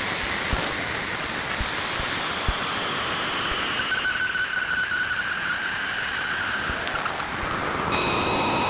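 Sonified Cassini radio and plasma wave (RPWS) recording from around Saturn's rings: a steady hiss with faint thin tones over it, some slowly falling in pitch.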